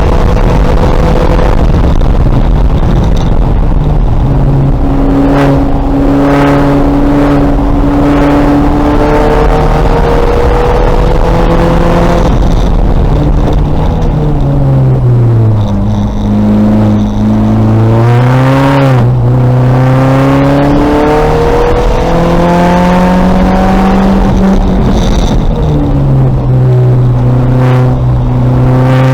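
VW Golf race car's engine pulling hard at full throttle, its pitch climbing through each gear and dropping at the upshifts. About halfway through the revs fall away and stay low for a couple of seconds as the car slows for a corner, then climb again.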